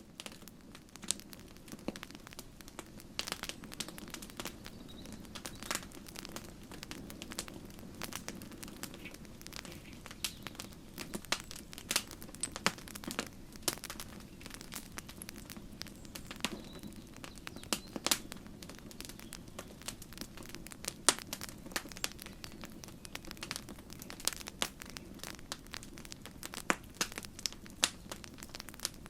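Campfire burning, with irregular crackles and sharp pops of the wood over a steady low rush of the flames.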